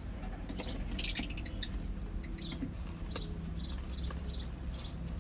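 Lovebirds chirping, with short high chirps repeating several times a second over a steady low hum.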